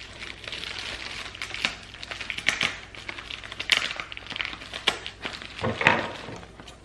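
A shipping bag and the bubble wrap inside it crinkling and rustling as the parcel is opened by hand, with irregular crackles, some louder than others.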